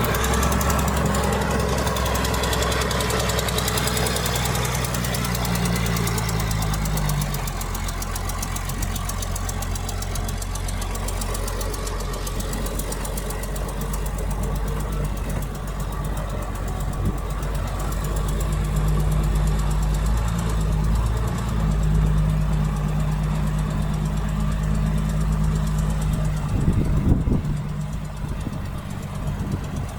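Heavy diesel earthmoving machinery running under load: the engine note drops about a quarter of the way in and climbs again past the middle. A brief louder clatter comes near the end.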